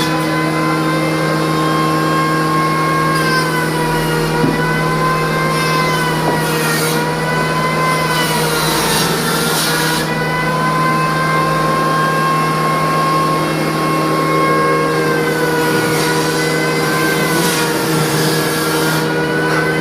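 Wood-Mizer band sawmill running and sawing, with a steady hum under a high whine that rises and dips slowly in pitch as the load on the saw changes.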